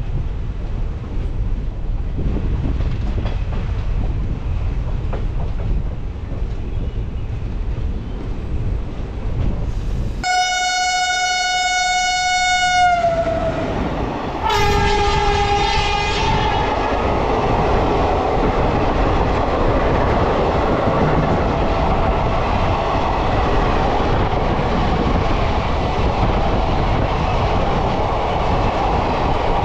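Rumble and rush of a running express train heard from on board. About ten seconds in, a train horn sounds for about three seconds, its pitch sagging as it ends, and a second, lower horn blast follows a moment later; the running noise is louder after that.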